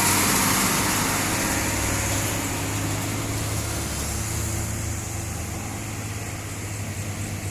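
Heavy diesel truck engine running under load with a steady low hum, loudest at first and fading as the truck moves on.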